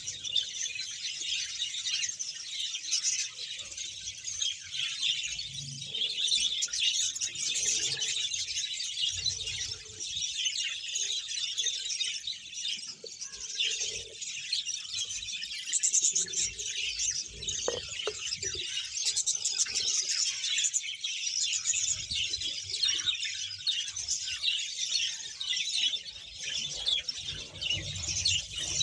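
A large flock of budgerigars chattering and chirping together in a dense, unbroken mass of high twittering calls.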